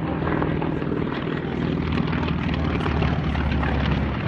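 Radial piston engine of a WWII warbird droning steadily as it flies past, the low engine tone swelling a little near the end.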